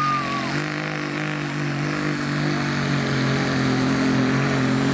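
Diesel truck engine under heavy load, running at a steady high pitch with a slight waver as it pulls a sled. A high whistle dies away about half a second in.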